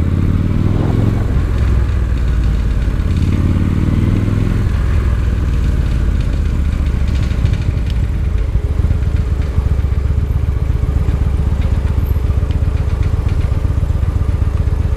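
Victory Highball's V-twin engine running while riding; the revs rise twice in the first few seconds, then it runs steadily.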